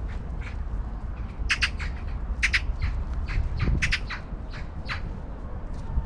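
Birds calling: a rapid scatter of about a dozen short, sharp calls, thickest in the middle and loudest about halfway through.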